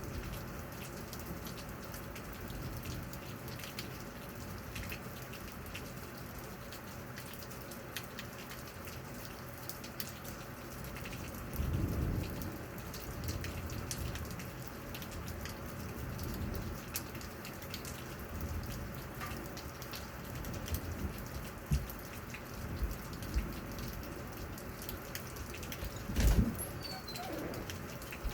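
Steady rain, with scattered drops tapping close by. A brief low rumble comes about twelve seconds in, and a sharp thump comes near the end.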